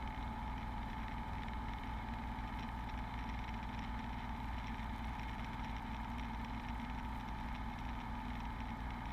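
Steady drone of a Beechcraft Bonanza V35's piston engine and propeller in flight, with no change in pitch or level.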